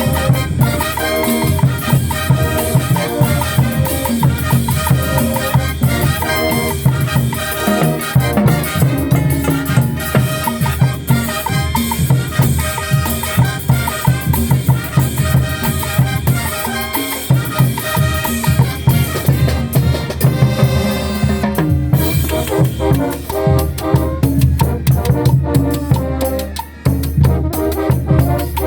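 Brass band music with drums, playing with a steady beat.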